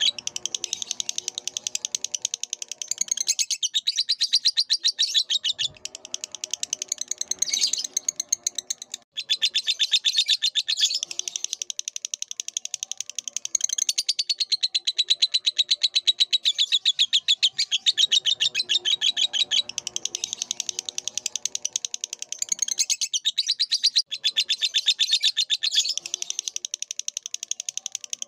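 Lovebird singing: a long run of very rapid, high chirps, many per second, broken by a few brief pauses, with a fainter, lower chatter under it at times.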